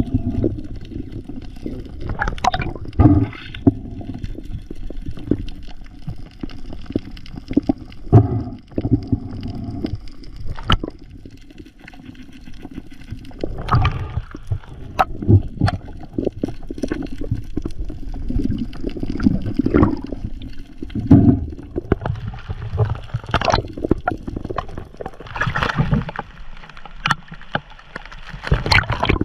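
Water sloshing and gurgling close to the microphone, with irregular splashes and knocks.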